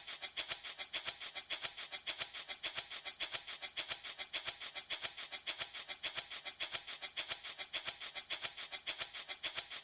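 Handmade baby rattle shaken steadily, a crisp, even rhythm of about four to five rattling shakes a second.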